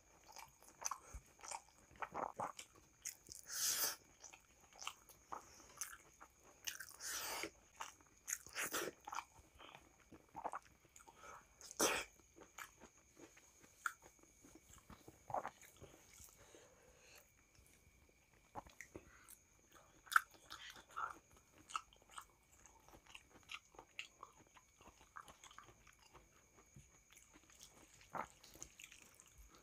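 Close-up eating sounds: wet chewing and mouth smacks of rice and dal eaten by hand, with soft squishes of fingers mixing rice on the plate. The smacks come irregularly, louder and more frequent in the first half, fewer and softer later.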